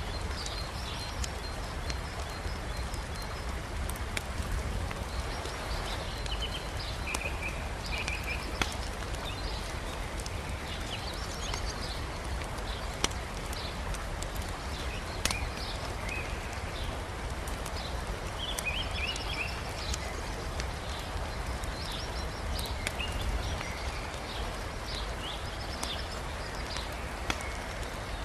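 Wood campfire crackling, with a few sharp pops from the burning logs, over the steady rush of a river. Small birds chirp repeatedly.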